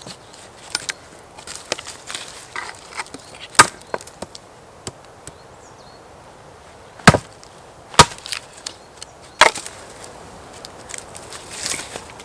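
Wood being chopped: four hard strikes, three of them close together in the second half, with lighter cracks and snaps of wood in between.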